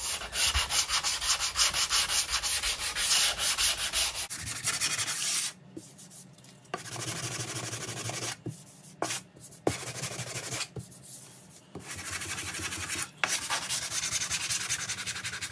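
Sanding block rubbed by hand over filled screw holes on a plywood wall, smoothing the dried filler. Quick back-and-forth strokes for about four seconds, then several shorter spells of sanding with brief pauses between them.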